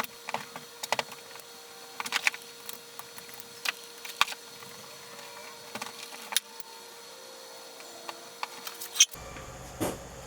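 Irregular sharp clicks and knocks over a faint steady hum; the background changes abruptly about nine seconds in.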